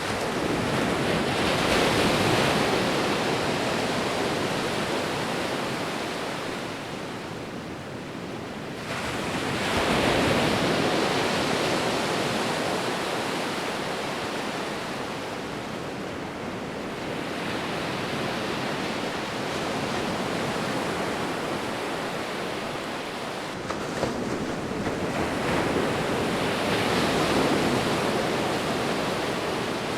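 Sea waves breaking and washing on the beach, the surf swelling and fading about every eight seconds, with one weaker wave midway.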